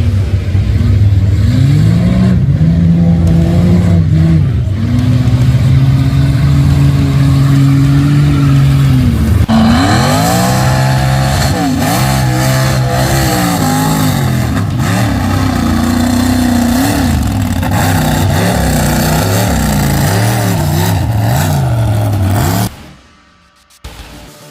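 Mud bog truck's engine running hard and revving, its pitch climbing and dropping again and again. From about ten seconds in a broad rushing noise joins the engine, and the sound cuts off abruptly near the end.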